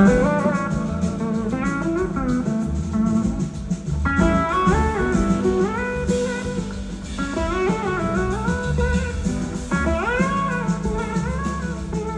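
Live blues-rock band playing, led by an electric slide guitar whose melody glides up and down between notes over bass and drums.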